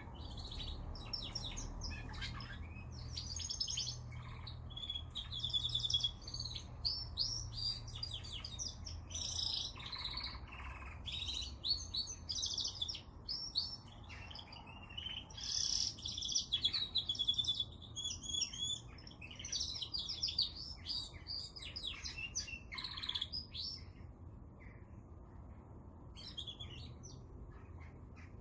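Domestic canary singing: long runs of rapid trills and warbled phrases, the song thinning to a few short notes near the end.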